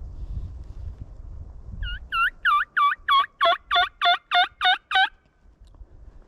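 Hen yelps on a turkey call: a run of about eleven yelps, roughly three a second, growing louder, starting about two seconds in. Wind rumbles on the microphone before the yelps.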